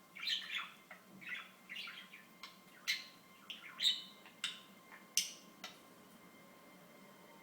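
Pet budgerigar chattering and squawking in a quick run of short, sharp calls that stops about six seconds in.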